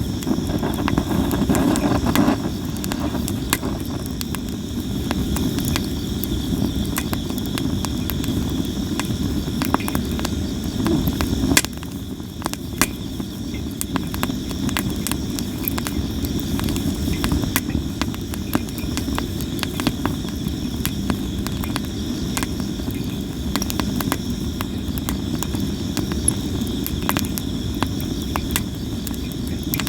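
Wood fire of sawara cypress crackling with frequent sharp pops, one louder pop about 11 seconds in, over a steady low rush. Crickets chirp steadily behind it.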